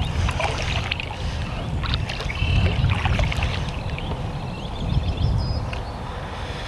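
Wind rumbling on the microphone while choppy water splashes and slaps around a canoe being paddled into the wind, with a few brief high chirps.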